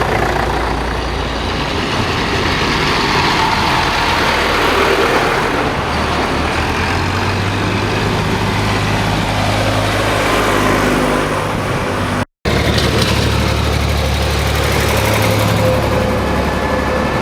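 Diesel farm tractors running as a procession goes by, a steady engine drone whose pitch shifts as different tractors pass. The sound cuts out completely for a moment about twelve seconds in.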